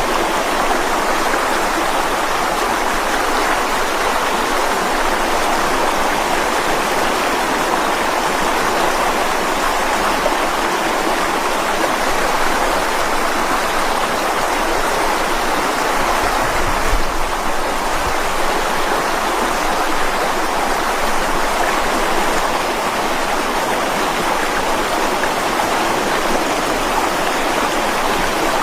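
Mountain stream flowing and splashing over rocks, a steady rushing water sound. A brief low thump sounds just past halfway.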